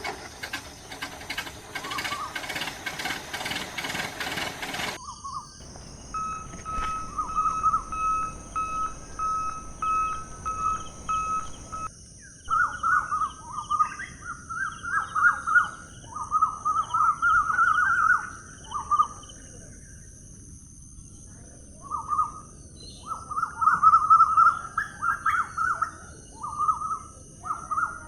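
Birds chirping in repeated short phrases through the second half, over a steady high hiss; the first few seconds hold a denser rhythmic sound.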